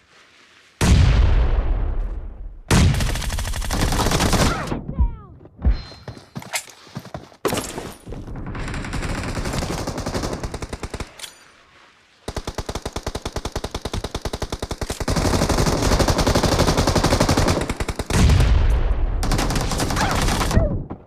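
Video-game gunfire: several bursts of automatic rifle fire, then a long rapid stream of evenly spaced shots through the second half.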